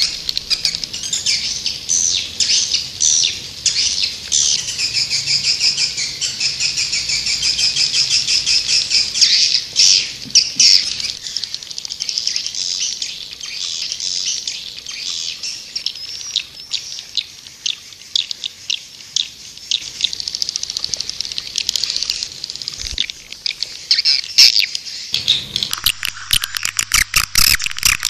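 Swiftlets calling: dense, rapid twittering chirps with many birds overlapping, as on a lure recording played to draw swiftlets into a nesting house. About 25 seconds in, the sound changes abruptly and a low hum joins the chirping.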